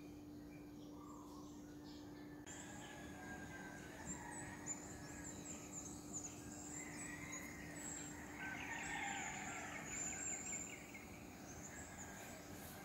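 Birds calling and chirping at low level, with a busier run of rapid calls a little past the middle. Before that, in the first couple of seconds, a faint steady hum.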